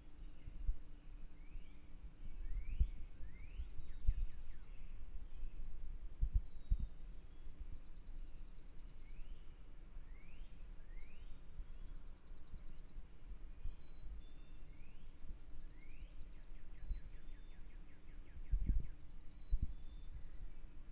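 Birds chirping: short rising whistled notes come now and then, over high, buzzy pulsed trills that repeat every second or two. Low thumps sound here and there, loudest near the end.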